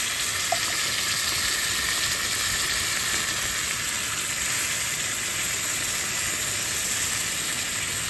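Black beans and smoked sausage sizzling in a skillet over a camp stove burner: a steady frying hiss. A fork stirs through them now and then.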